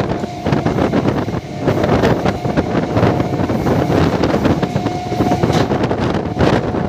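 MEMU electric train running at speed, heard at a window: wind buffets the microphone over a steady rumble of wheels on rail, with scattered clacks. A faint steady high tone comes and goes.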